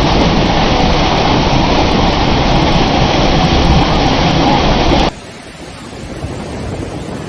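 Loud, steady noise of rushing floodwater with wind buffeting the microphone, cutting off suddenly about five seconds in to a quieter rush of water and wind.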